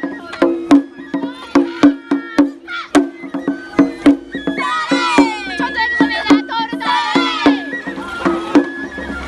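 Traditional Japanese festival music for a lion dance: sharp drum strokes about two or three a second, with a high melody moving in held, stepped notes.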